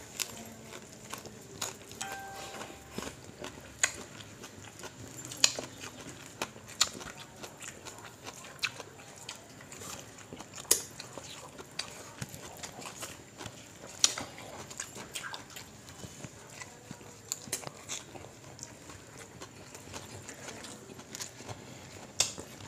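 Close-up eating sounds of people eating rice and fried fish with their hands: chewing and mouth smacks, with irregular sharp clicks.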